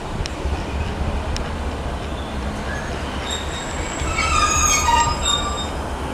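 Train moving through the station with a steady low rumble. About three seconds in, a high metallic squeal of several tones sets in, loudest a little over four seconds in, then fades out shortly before the end.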